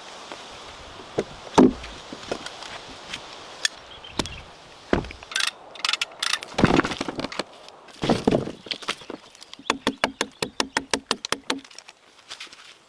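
Knocks and thuds of wood being worked by hand. Irregular impacts come first, then a quick, even run of about five knocks a second for two seconds near the end.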